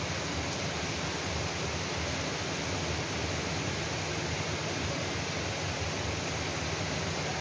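Heavy rain falling in a steady, even hiss with no separate drops or breaks.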